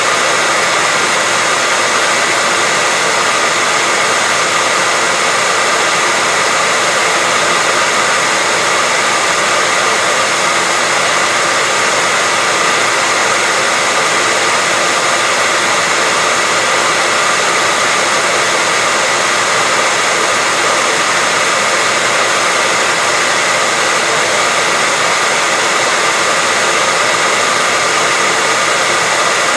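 Hair dryer blowing steadily, a constant rushing of air with a faint steady whine.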